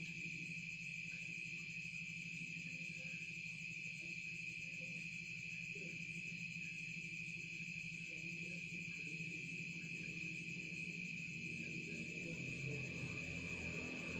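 Insects chirring in a steady, continuous high-pitched chorus over a low steady hum.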